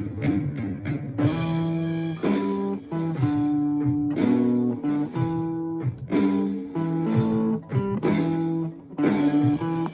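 Rock music with a keyboard playing a chord backing part, muted triplet figures with chords sounded firmly on beats 2 and 4, over a band track with guitar. The chords alternate between held and clipped short in an even rhythm.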